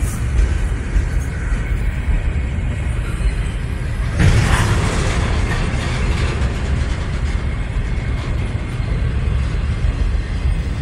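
Double-stack intermodal train's loaded well cars rolling past, a steady low rumble of steel wheels on rail. A brief louder surge of noise comes about four seconds in.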